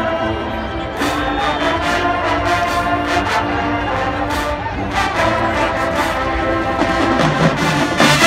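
HBCU marching band playing, a full brass section of trombones and trumpets sounding held chords over repeated drum hits.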